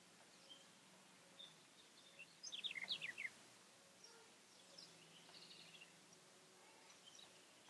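Small birds chirping, mostly faint and scattered, with a quick run of several sharp, falling chirps about two and a half seconds in that stands out as the loudest sound.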